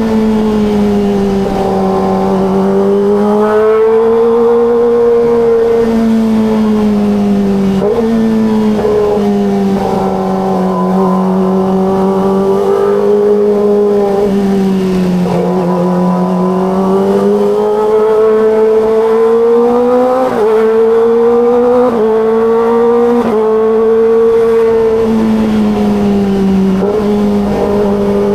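Kawasaki ZX25RR's 250 cc inline-four engine running under way at steady mid revs. Its pitch rises and falls gently with the throttle, with several short breaks and steps in pitch.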